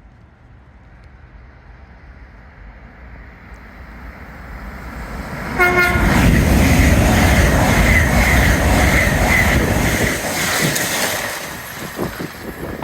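A train approaches and runs through the station at speed. It gives a short horn blast about halfway through, just as the loud rush of the passing train begins, and the rush fades near the end.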